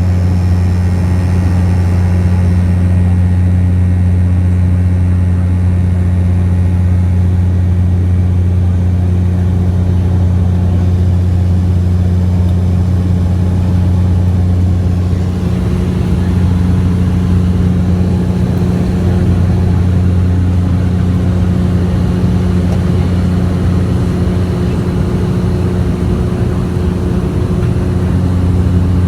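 Bombardier Q400 turboprop propellers heard inside the passenger cabin: a loud, steady low drone with a second, higher hum above it, wavering slightly about halfway through.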